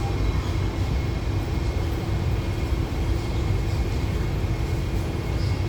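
Steady low hum and rumble of an MTR IKK-Train carriage standing at the platform, its air-conditioning and auxiliary equipment running, with a faint steady tone over it.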